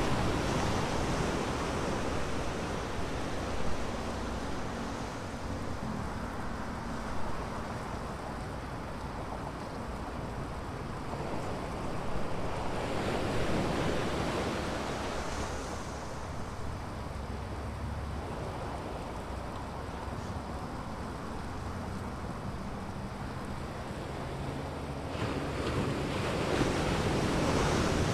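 Ocean surf breaking on a sandy beach: a steady wash of waves, swelling louder about halfway through and again near the end, with wind buffeting the microphone.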